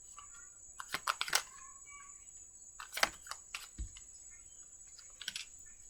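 Tarot cards being handled and laid down: a few sharp clicks and snaps of card stock, about a second in, around three seconds and again around five seconds, with a soft thump near four seconds. A faint steady high-pitched whine runs underneath.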